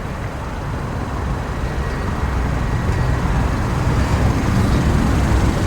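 A motor vehicle's engine running nearby, a low steady rumble that slowly grows louder.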